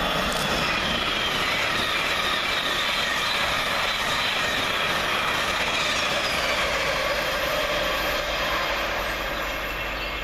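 A Thameslink Class 700 electric multiple unit running through the station at speed: a steady rush of wheels on rail with a faint motor whine that slowly falls in pitch, easing off near the end.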